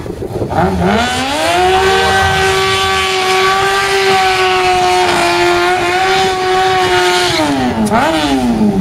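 Drag-racing sport motorcycle's engine revving up, then held at a steady high pitch for about six seconds before easing off, with one quick blip of the throttle near the end.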